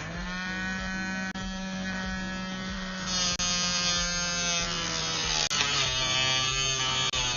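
Small DC electric motor of a DIY model tractor running with a steady buzzing whine, its pitch dropping slightly about six seconds in.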